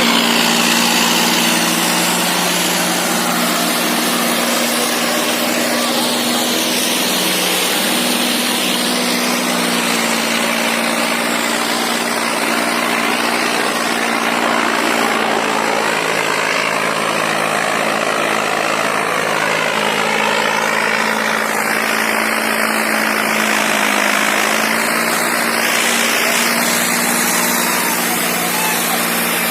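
Tractor diesel engine running steadily, its pitch dipping slightly and recovering a few times.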